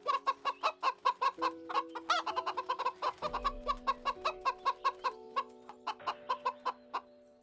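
Chicken clucking rapidly, about four short clucks a second, growing sparser and fading out near the end, over soft music with long held notes.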